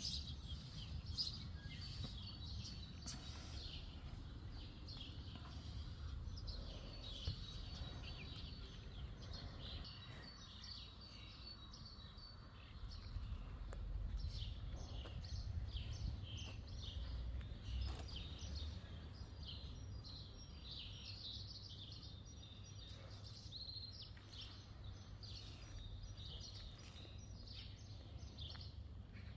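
Small songbirds chirping and singing, many short high notes from several birds, over a steady low rumble.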